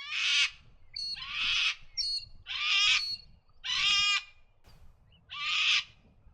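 Grey teal calling: a series of harsh, rasping calls about once a second, each around half a second long.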